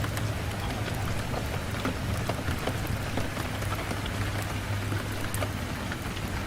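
Steady rain on a window: a dense, even hiss with scattered sharp ticks over a low steady rumble.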